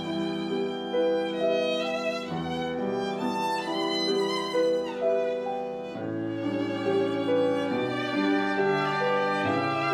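Live chamber music from a small classical ensemble of violin, cello, clarinet, oboe and piano, with the violin prominent: sustained melody notes over held lower notes that change every few seconds.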